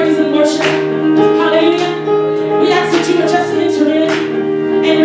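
Gospel music: voices singing over instrumental backing, with regular percussion strikes.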